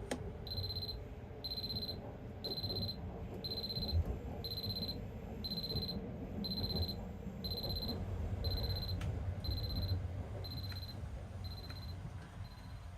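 An electronic alarm beeping: a short, high beep about once a second, about thirteen beeps that grow fainter over the last few and then stop. A low, steady rumble runs underneath.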